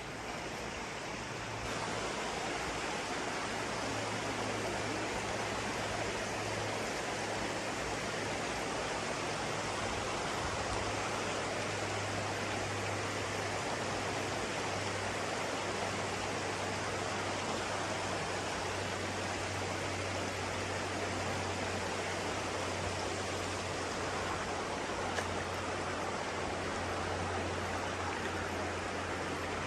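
Running water rushing steadily, as of a stream or cascade, stepping a little louder about two seconds in.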